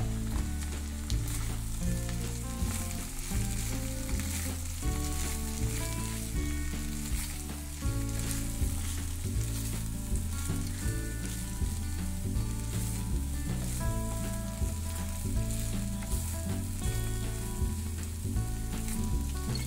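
Poha (flattened rice) with onion and potato sizzling in oil in a frying pan as a silicone spatula stirs it. Light background music with a stepping bass line plays underneath.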